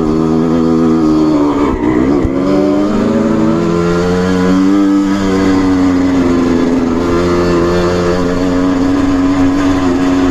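Trail motorbike engine running with the throttle varied, its pitch dipping sharply about two seconds in and rising and falling again around five seconds in.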